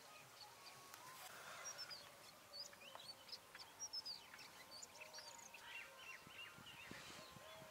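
Faint chirping of small birds: many short, quick notes sliding up and down, starting about a second and a half in.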